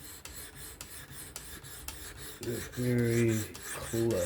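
600-grit diamond plate stroked along an S30V steel knife edge on a fixed-angle sharpener: a rapid, regular rasping scrape, stroke after stroke, as the bevel is worked to raise a burr.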